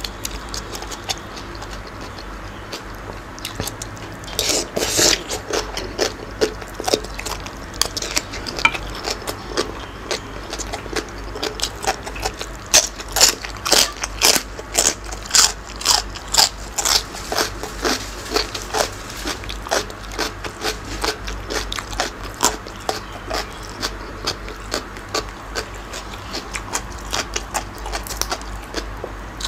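A man chewing and crunching raw vegetables, such as purple cabbage, along with spicy green papaya salad with squid: an irregular run of short, crisp crunches and wet mouth sounds, thickest about halfway through.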